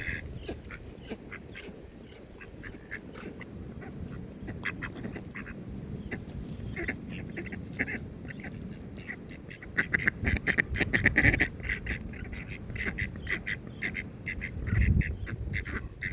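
Ducks quacking over and over in short calls, busiest about ten to twelve seconds in.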